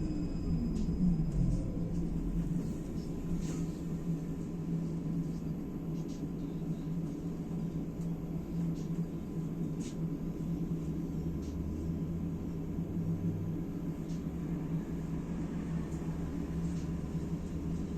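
Cabin sound of a MAZ-203T70 trolleybus: the electric traction drive's whine falls in pitch and dies away about a second in as the trolleybus slows, then a steady low hum and rumble with a few faint rattles.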